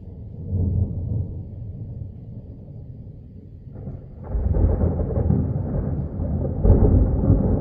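Thunder rumbling low, then a louder peal breaking in about four seconds in and rolling on, swelling again near the end.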